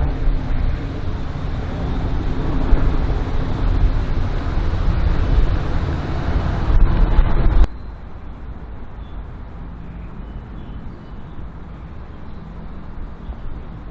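A slalom race car's engine running loud. It cuts off abruptly about eight seconds in, leaving a much quieter engine sound.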